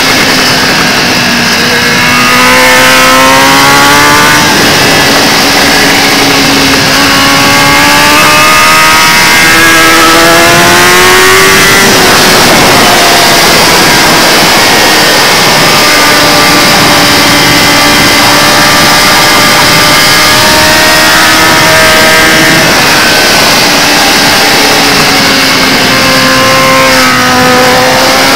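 Kawasaki ZX-10R's inline-four engine running hard at race pace. Its pitch climbs under throttle for several seconds and drops sharply about twelve seconds in. It then holds fairly steady, dips near the end and climbs again. A constant dense rushing noise runs under it.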